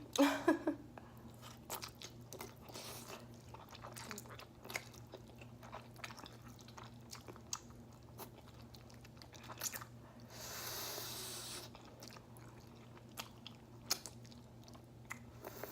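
Close-miked chewing and wet mouth sounds of eating instant ramen noodles, with scattered small clicks. A steady breathy hiss lasts about a second and a half, starting a little after ten seconds in.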